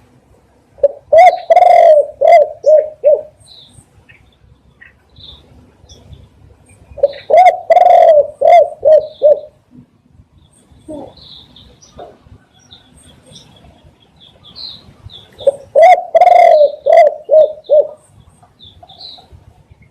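Spotted dove cooing loudly: three phrases of several deep coos, one roughly every seven seconds. Small birds chirp faintly between the phrases.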